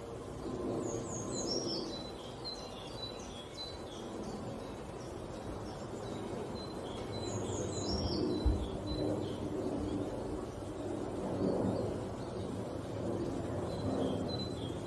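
A small songbird singing outdoors in quick phrases of high, falling chirps, twice, with fainter notes near the end, over a steady low background hum of outdoor noise. There is a brief low thump about eight seconds in.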